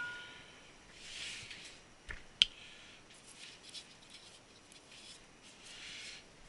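Faint handling noises: soft rustling and scraping, with two sharp clicks a little after two seconds in, the second one louder.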